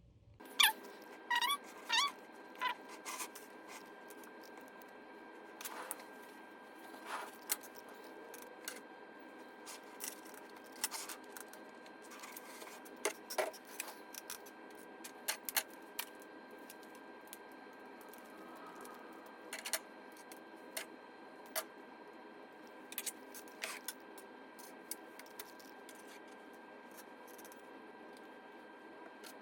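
Scattered small clicks and ticks, irregular and a few a second, over a steady faint hum, with a short run of quick chirp-like sweeps in the first couple of seconds. The clicks come from hand work on a wig with needle, thread and hair, run sped up.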